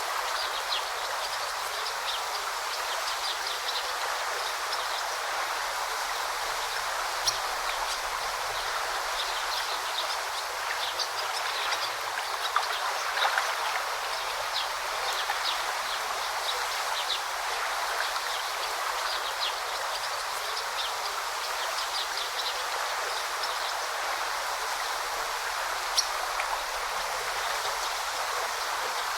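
A forest stream running steadily with a continuous babbling rush of water. Small birds chirp in short, high notes throughout, and a few sharper ticks stand out, one about seven seconds in and one near the end.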